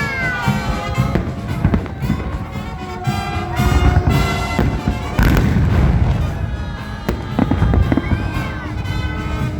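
Fireworks salute going off in repeated bangs and crackles, with music playing at the same time.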